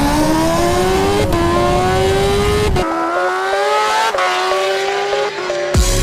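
High-performance engine accelerating hard at full throttle. Its note climbs steadily and drops back at each upshift, about every one and a half seconds.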